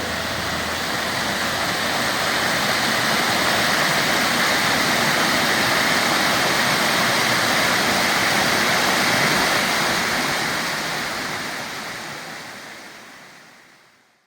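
Rushing water, a steady hiss like a stream or small waterfall, fading out over the last few seconds.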